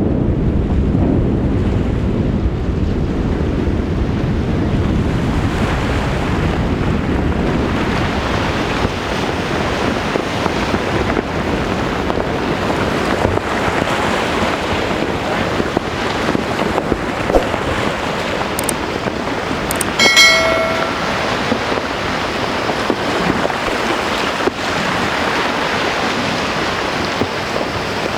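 Steady rush of sea surf and wind buffeting the microphone. About twenty seconds in, a short pitched tone sounds briefly over it.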